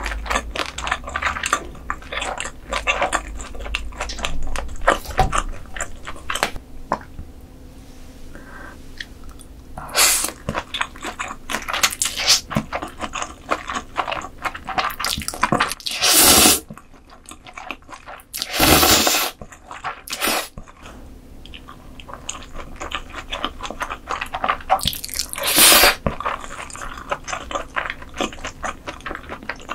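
Close-miked mukbang eating: crunching and wet chewing of crisp grilled beef intestines, with dense small crackles and a few louder, longer bites.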